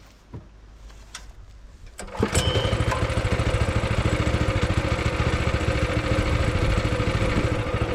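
Small petrol engine of a kinetic log splitter starting about two seconds in, then running steadily.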